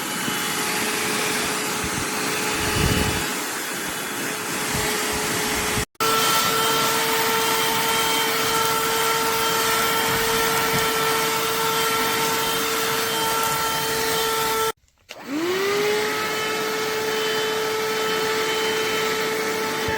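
Cordless handheld vacuum cleaner running with a steady motor whine over the hiss of its airflow. The sound cuts out abruptly twice; after the second break, about three-quarters of the way through, the motor spins back up, its whine rising quickly to a steady pitch.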